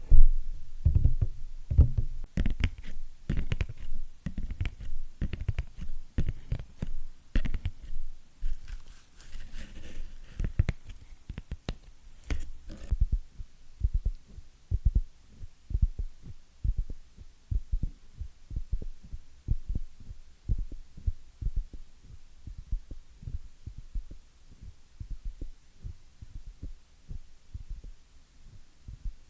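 Fingernails tapping quickly on an object. The taps sound crisp at first, then about halfway through become deep, dull thuds.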